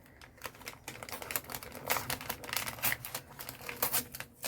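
Paper being torn and crinkled by hand: a run of irregular crackles and rips.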